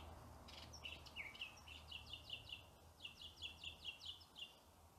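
Faint bird chirping: runs of short, quick chirps, each falling in pitch, several a second, stopping shortly before the end.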